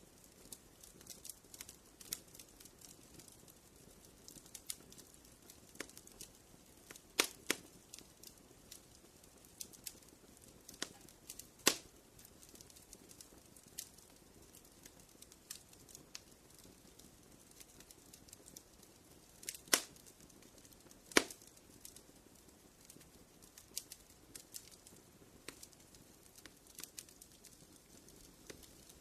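Fire in a fireplace crackling: a steady run of small sharp ticks over a faint hiss, with a handful of louder pops scattered through.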